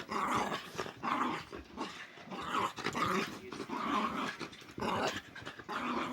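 Dog play-growling in a run of short growls, about one a second, excited and worked up.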